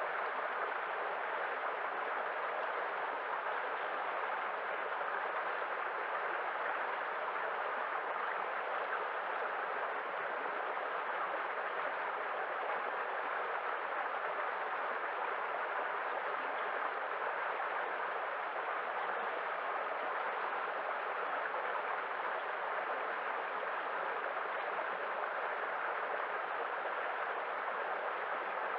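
Steady rushing of running water, an even hiss with no changes or separate events.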